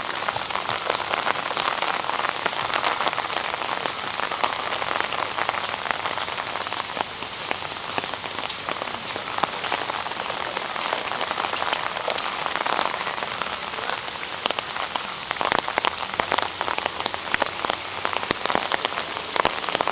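Heavy rain falling steadily, with many sharp close drop hits that come thicker near the end.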